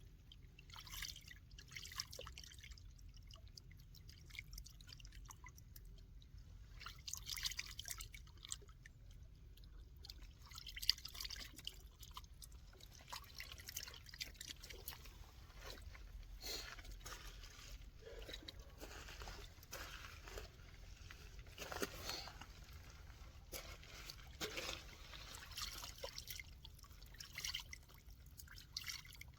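Faint water sounds: irregular small drips and trickling splashes over a low steady rumble.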